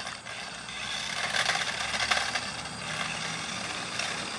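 Battery-powered remote-control toy car driving on driveway pavement: plastic wheels scraping and rattling over the grit, with a faint motor hum, louder between about one and two seconds in.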